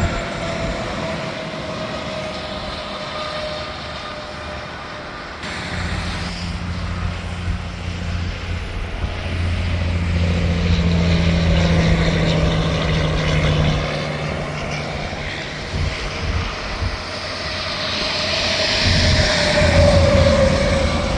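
Heavy trucks passing on an interstate highway: a steady drone of engines and tyres that swells as one goes by about halfway through and again louder near the end, its humming tone falling in pitch as it passes.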